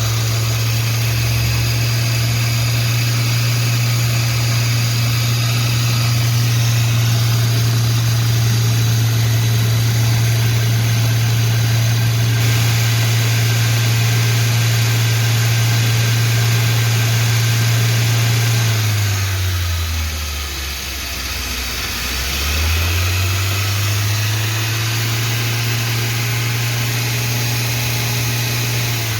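Car engine running steadily; about two-thirds of the way through its pitch sinks for a few seconds and then rises back to the same steady note.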